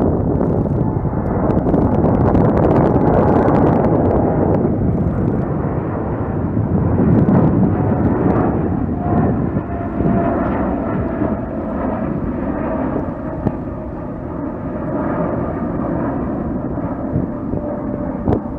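Jet airliner's engines as it passes: a loud, steady roar, with a whining tone coming through about halfway that slowly drifts lower in pitch.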